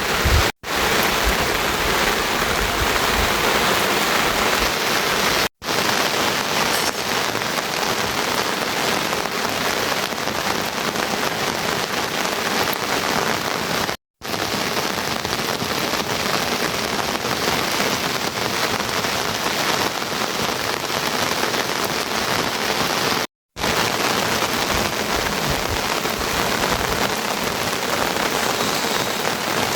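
Steady heavy rain falling, a dense even hiss, cut to silence briefly four times.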